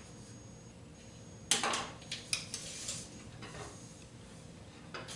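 Metal clicks and light clatter from handling the aluminium miter gauge fence and its flip stop: one sharp click about a second and a half in, then a quick run of smaller clicks, with a few faint taps later.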